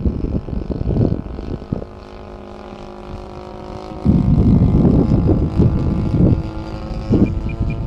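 DLE 35 single-cylinder two-stroke gas engine of a radio-control Extra 260 aerobatic plane, running steadily in flight. Gusts of wind buffet the microphone, heaviest from about four seconds in.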